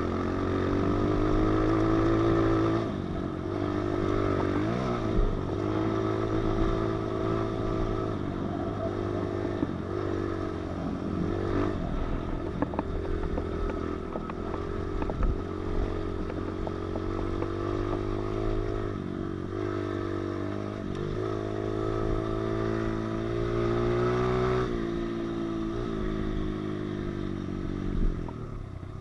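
A pit bike's small single-cylinder engine under way while ridden. Its note climbs and drops again and again as the throttle is worked and gears change, falls away sharply near the end, and a few sharp clacks come from the bike.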